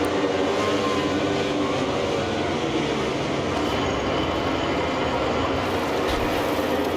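A pack of MotoGP racing motorcycles at full throttle, many engines at high revs blending into one dense, steady sound.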